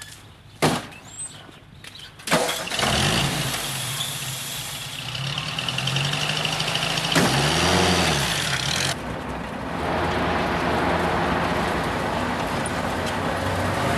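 Two sharp knocks, then a motor vehicle's engine starts about two and a half seconds in and keeps running, revving up and back down around the middle.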